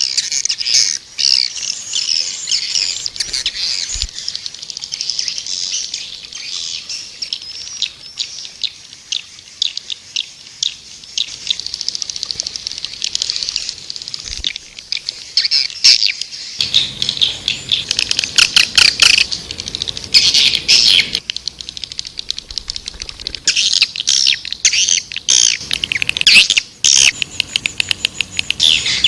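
Swiftlets twittering: a dense, continuous run of rapid high chirps and trills, fuller and louder in stretches in the second half. This is the kind of swiftlet call recording played to draw swiftlets into nesting houses.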